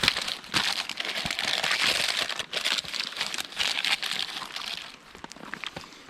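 Crinkling and crumpling of a lining sheet being pressed in to line a container for cornbread batter, busy for about five seconds and then quieter.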